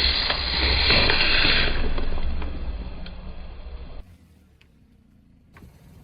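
A car running and rolling, engine and tyre noise fading away about four seconds in, followed by a quiet stretch with a few faint clicks.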